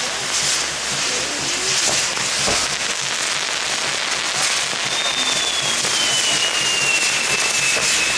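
Fireworks crackling and popping continuously, with a long falling whistle starting about five seconds in.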